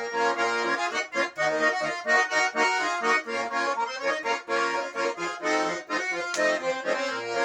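Garmon (Russian button accordion) playing an instrumental passage between sung verses, a melody of quickly changing notes.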